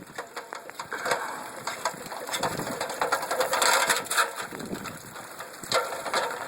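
Irregular crackling, scraping and scattered knocks close to the phone's microphone, as the person handles the phone while climbing down off a metal roof. The noise is loudest about three and a half to four seconds in.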